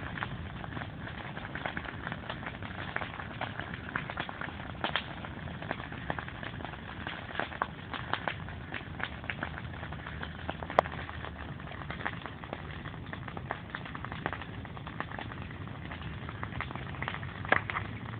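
Wood campfire crackling, with a continuous hiss and frequent small pops, plus two sharper snaps, one about eleven seconds in and one near the end.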